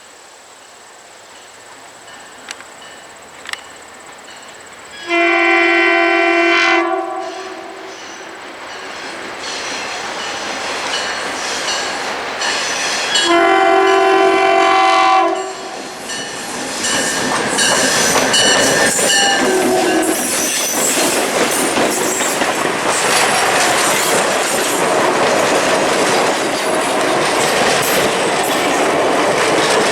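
Diesel locomotive horn sounding two long blasts, about 5 and 13 seconds in, from EMD F10 No. 1502 leading with MLW RS18u No. 1835 behind. The passenger train then passes close by, with growing engine rumble and the steady clickety-clack of wheels over rail joints.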